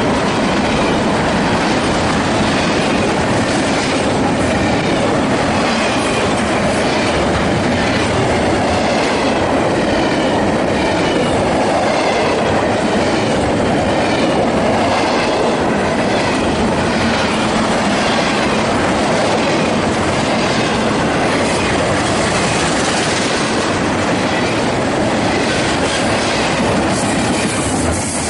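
Double-stack intermodal freight train passing close by at speed: a steady loud rumble and rattle of steel wheels on the rails and the well cars clattering by.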